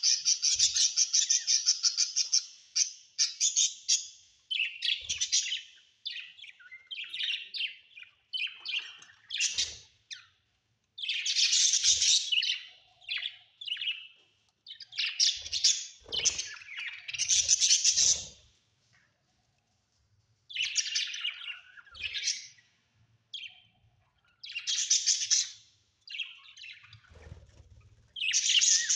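Budgerigars chirping and chattering in bursts of rapid warbling, with short pauses between them.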